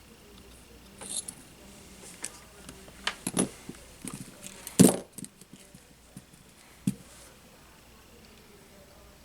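Small tools and parts handled on a workbench during a drone frame repair: a run of irregular light clinks and knocks, loudest about halfway through, then settling back to quiet room tone.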